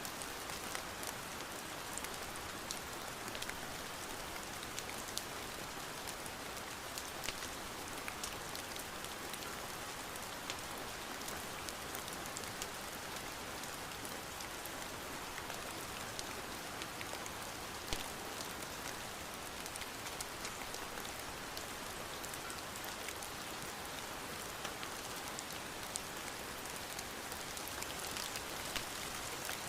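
Steady rain falling, an even hiss dotted with many sharp ticks of individual drops, one louder than the rest about eighteen seconds in.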